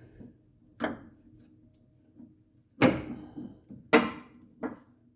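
Four sharp knocks and clunks of hand tools being handled, the two loudest about three and four seconds in.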